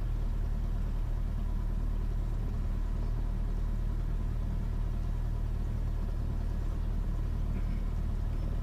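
Cessna 172S Skyhawk's four-cylinder Lycoming piston engine and propeller running steadily at low power, heard inside the cabin as an even, low drone before the takeoff roll.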